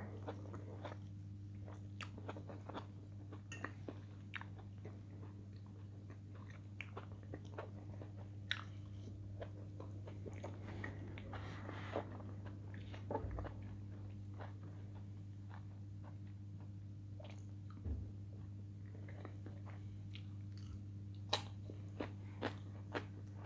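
Close-up mouth sounds of a person chewing food with the mouth closed: small wet clicks and smacks at irregular intervals, a few louder ones near the end, over a steady low hum.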